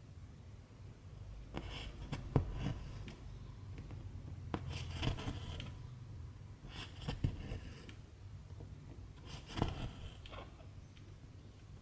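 Cross-stitch needle punching through stiff 11-count fabric and silk thread being drawn through it: four rounds of sharp little clicks and scratchy pulls, about one every two and a half seconds.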